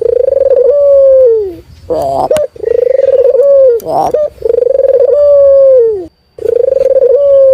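A local puter dove (Barbary dove) cooing: four long coos in a row, each opening with a short rolling note, then holding a steady pitch and dropping at the end.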